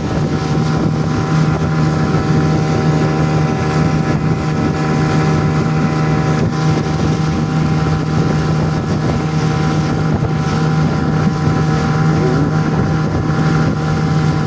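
Motorboat engine running at a steady speed, one unchanging droning note, with wind buffeting the microphone as the light boat moves across the water.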